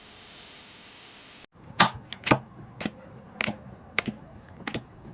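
A faint steady hiss that cuts off abruptly, followed by a series of sharp clicks or taps, unevenly spaced at roughly one every half second.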